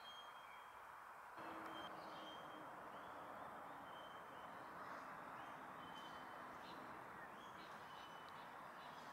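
Faint bird calls in the bush: short, high whistled notes, repeated every second or so over a steady background hiss that gets a little louder about one and a half seconds in.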